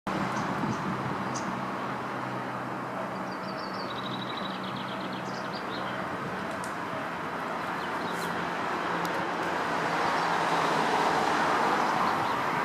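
Outdoor ambience dominated by a steady rush of road traffic, swelling near the end as a vehicle passes, with a short rapid bird call about three seconds in.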